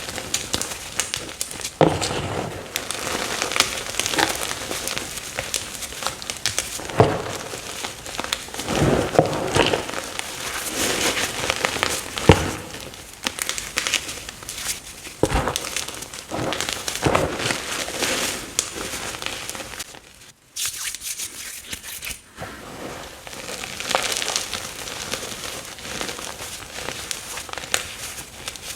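Fresh chalk blocks being crushed and crumbled, a dense run of crunchy crackles and snaps with a short pause about two-thirds of the way through.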